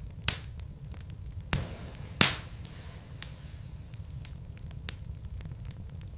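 Wood fire burning in a fireplace, crackling over a steady low rumble, with sharp pops from the logs. Three loud pops come in the first two and a half seconds, the loudest a little after two seconds in, followed by fainter scattered snaps.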